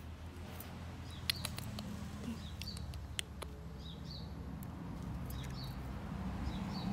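A small bird chirping: short high chirps repeating every second or so, often in pairs, over a steady low hum, with a few sharp clicks in the first half.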